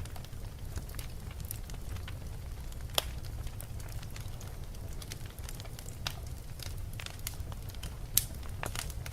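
Fireplace fire crackling, with irregular sharp pops over a low steady rumble. Two louder pops come about three seconds in and near the end.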